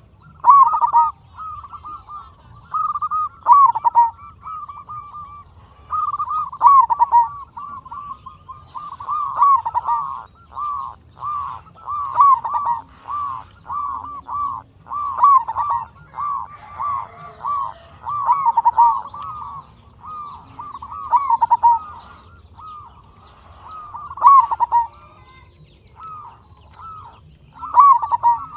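Zebra dove (perkutut) cooing: phrase after phrase of short, rapid coo notes, with brief pauses between phrases and a longer gap near the end.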